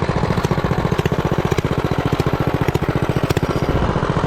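Mini bike's small single-cylinder engine running at a steady speed, with a fast, even putter.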